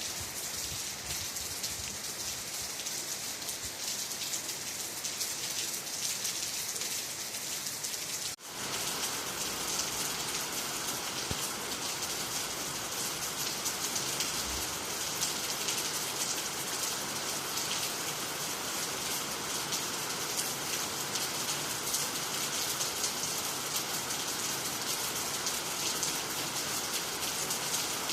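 Steady rain falling, an even hiss of many drops. About eight seconds in the sound drops out for a moment, then comes back slightly fuller and louder.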